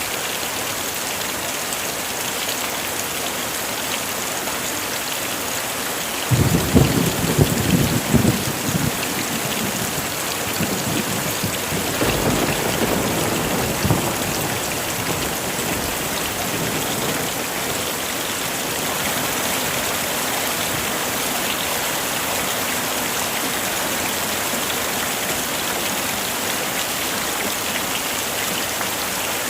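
Heavy rain falling steadily. About six seconds in, a sudden clap of thunder rumbles for a few seconds, and a second, weaker roll of thunder follows and dies away.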